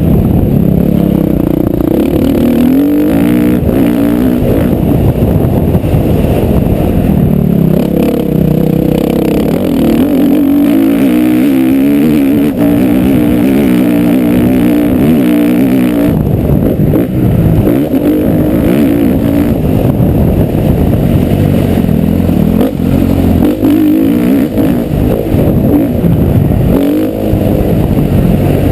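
Motocross bike engine revving up and down, its pitch rising and falling again and again, loud and close as if heard from the bike itself.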